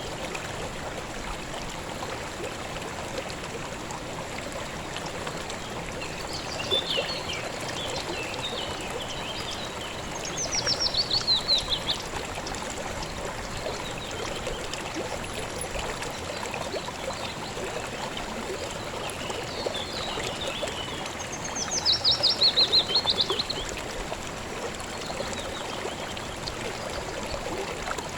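A river or stream running steadily over stones. A bird sings twice over the water, a fast trill of notes falling in pitch, with softer chirps between.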